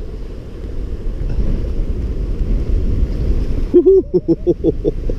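Strong gusting wind buffeting the microphone: a deep, continuous rumble that grows louder after about a second. About four seconds in, a short wavering tone cuts through briefly.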